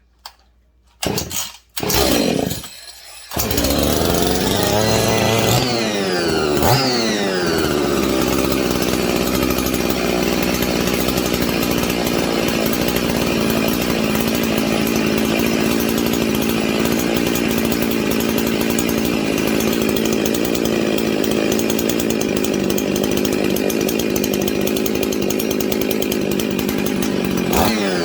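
Husqvarna 55 two-stroke chainsaw being pull-started: two short pulls, then it catches about three seconds in. It is revved briefly a couple of times and then keeps running steadily.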